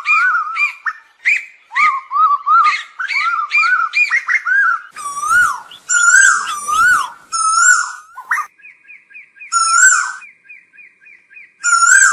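Asian koel calling loudly, a rapid string of short rising and falling notes, with a fast run of short ringing notes at about four a second near the end. A lure recording used to call in koels.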